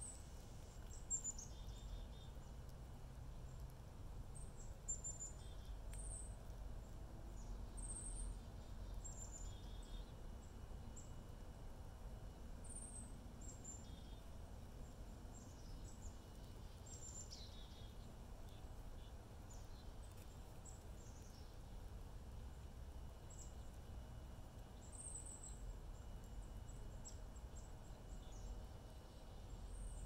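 Small birds chirping faintly: scattered short, high chirps, many sliding down in pitch, over a steady low outdoor rumble.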